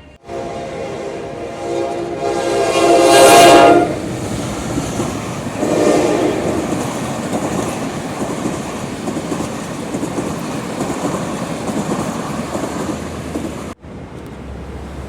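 General Electric diesel locomotive sounding its multi-tone horn for about four seconds, growing louder before it stops. The train then runs past with a steady rumble and clatter of wheels on rail, which cuts off abruptly near the end.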